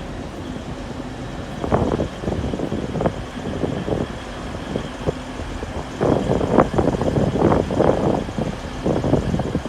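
A train at a station platform: a steady low hum, then from about two seconds in a run of irregular rumbles and knocks that grow busier near the end.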